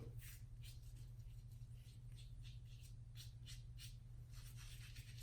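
Safety razor with a Voskhod double-edge blade scraping through lathered stubble in short, quick strokes, about three a second, on a touch-up pass at the end of the shave.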